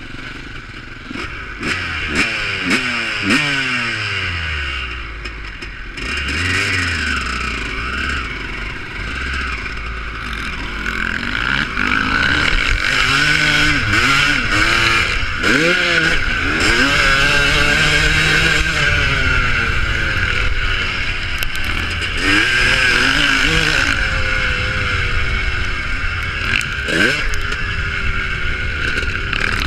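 Several motocross bike engines revving hard and dropping back as they race, overlapping without a break and getting louder from about twelve seconds in.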